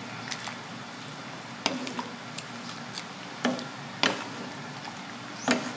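Wooden spatula stirring a thick pork stew in a metal wok, knocking against the pan about six times at irregular intervals over a steady low hiss.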